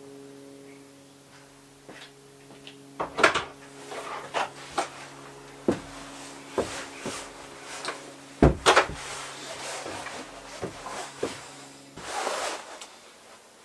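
Irregular knocks and clatters of hard objects being handled and set down on a workbench, the loudest about three and eight and a half seconds in, over a steady low hum that stops near the end.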